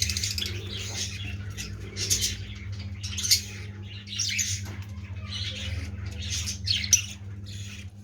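Blue-masked lovebirds squawking and chattering in repeated short, shrill calls, several every second or two, over a steady low hum.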